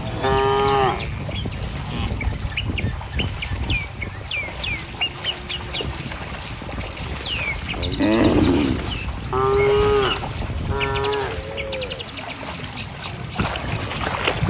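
Cattle mooing, about four calls: one at the start and three more in the second half. Birds chirp high and briefly throughout, over a steady low noise.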